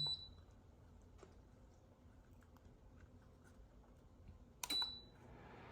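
Lasko ceramic tower heater's control panel beeping twice: a short high beep at the start, then a button click and a second beep near the end. Between them there is only faint low background.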